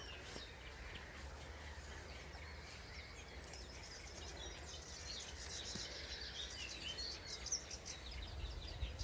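Birdsong over a low rumble of wind on the microphone. In the second half a reed warbler's fast, repetitive chattering song builds up.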